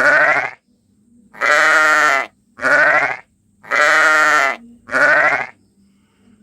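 Sheep bleating five times in quick succession, each bleat about half a second long with a wavering, quavering pitch.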